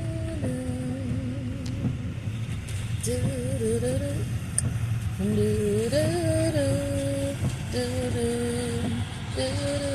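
A woman humming a tune without words in several long held notes that waver slightly, over the steady low rumble of a car driving.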